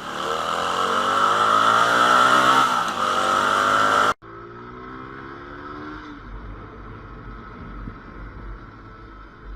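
Motorcycle engine accelerating hard, its pitch climbing steadily for about four seconds until it cuts off abruptly. Then another motorcycle runs more quietly, with wind rumbling on the microphone.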